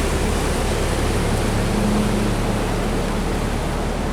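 Water rushing through an open sluice gate, with the steady low drone of a boat's engine beneath it; the engine note briefly strengthens about two seconds in.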